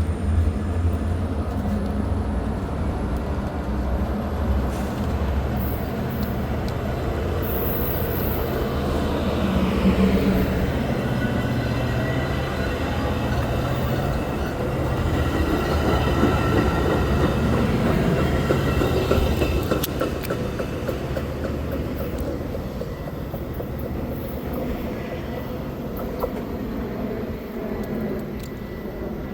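Diesel-hauled Metra commuter train rolling by. A deep locomotive engine rumble dominates the first ten seconds or so, followed by the steady noise of the passenger cars' wheels on the rails with a faint wheel whine, easing slightly near the end.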